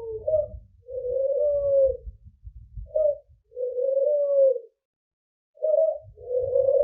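A bird in the aviary cooing: three low, smooth calls, each a short note followed by a longer drawn-out one, with a brief pause before the last, over a faint low rumble.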